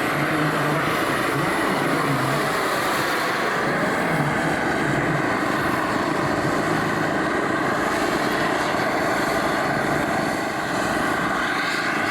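Radio-controlled model aircraft engine running steadily, its pitch drifting slowly as it moves.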